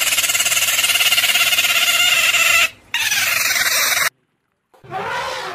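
Capybaras calling: a harsh, rapidly pulsing chatter that breaks off briefly just before three seconds in and stops at about four seconds. Near the end a different call with falling tones begins.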